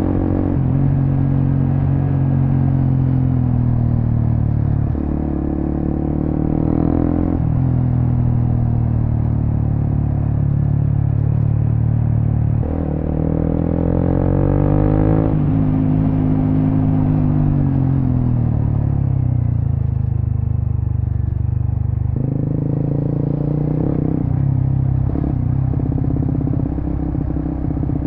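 Suzuki GSX-S150's single-cylinder engine running through a Quinze big-volume aftermarket exhaust while riding. Its pitch steps up and down several times with throttle and gear changes, and it falls away gradually just past the middle as the bike slows.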